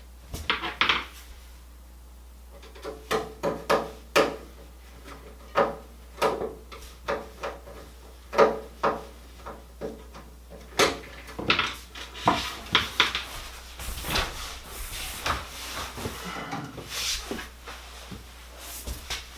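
Hands handling the replacement Electrolux dryer pedestal drawer-lock part and the pedestal: a run of irregular clicks and knocks of hard parts, with rustling about three-quarters of the way through.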